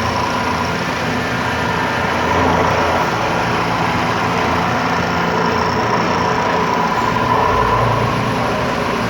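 CNC milling machine cutting a metal workpiece for a mould: a steady machining noise with a faint constant whine over a low hum.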